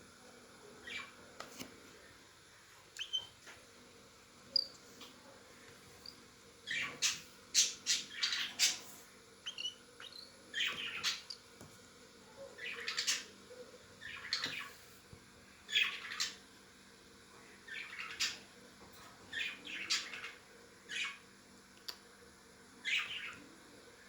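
Cockatiel calling in short raspy chirps, one every second or so, with a few thin high chirps early on.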